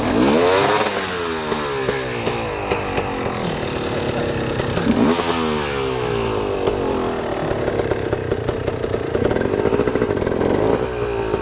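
Dirt bike engine revving hard twice, about five seconds apart, the pitch falling away after each rise, then running at steady revs.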